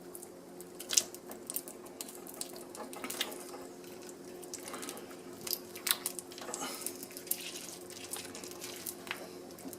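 Heated uncapping tool melting the wax cappings off a honeycomb, with irregular crackles and pops scattered throughout and a faint steady hum beneath.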